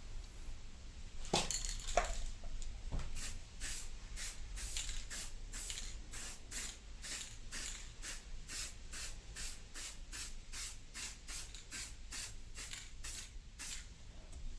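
Aerosol spray can hissing in short, evenly repeated bursts, about two a second, after a couple of sharp knocks near the start.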